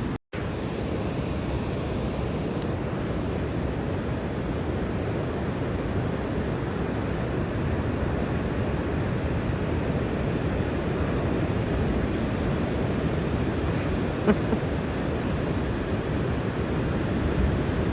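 Steady rushing noise of ocean surf on a beach, mixed with wind on the microphone, with a brief dropout just after the start.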